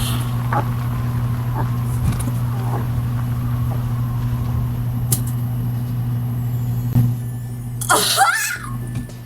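Steady low engine drone of a vehicle, with scattered faint clicks. Near the end comes a brief, loud, wavering high squeal, and the drone cuts away after it.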